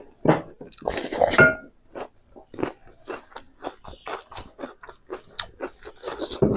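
Close-up chewing and crunching while eating Naga-style pork: a string of short, crisp crunches and wet chews, loudest about a second in.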